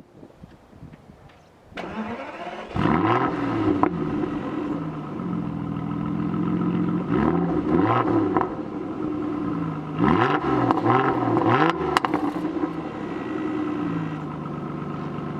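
2014 Aston Martin DB9's V12 engine being started about two seconds in, catching a second later. It is then revved in several short blips between spells of steady idling.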